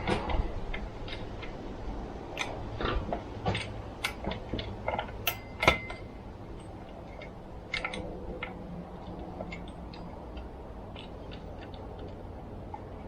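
Irregular light clicks and taps of small chainsaw parts and hand tools being handled during reassembly, with one sharper knock a little under six seconds in, over a faint steady hum.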